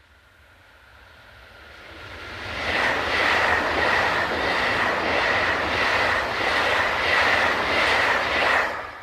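Freight train passing close at speed: wheels clattering rhythmically over the rail joints with a steady high-pitched ring, building up over the first couple of seconds and cutting off sharply near the end as the last wagon goes by.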